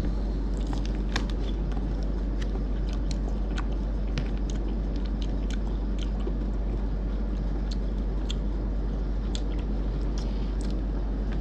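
Close-up biting and chewing of a peanut butter ice cream bar coated with chopped peanuts, with many small crunches and mouth clicks scattered through. The coating is soft, with crunchy peanut bits in it. A steady low hum runs underneath.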